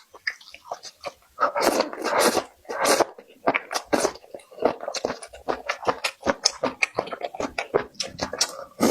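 Close-miked chewing of food, with wet smacks and clicks and a few longer slurping bursts.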